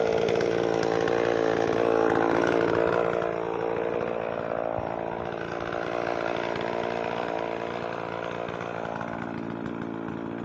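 Gasoline chainsaw running steadily, a little quieter after about three seconds.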